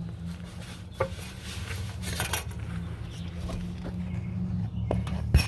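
Metal hand tools clinking and knocking against metal under a car while its starter is being taken out. There is a sharp knock about a second in, a cluster of clinks a second later and a loud knock near the end, over a steady low hum.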